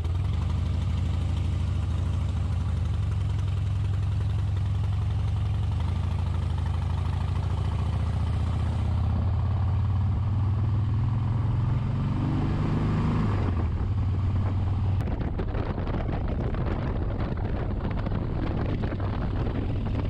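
Harley-Davidson Heritage Softail Classic's V-twin engine running steadily under way. About two-thirds through the revs climb, then drop sharply, as at a gear change.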